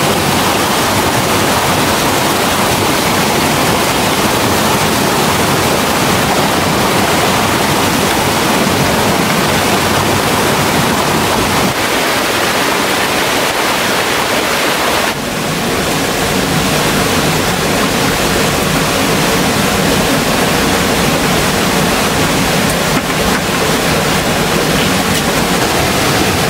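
Loud, steady rush of a waterfall and mountain stream, a constant even roar of water; its tone shifts abruptly about halfway through.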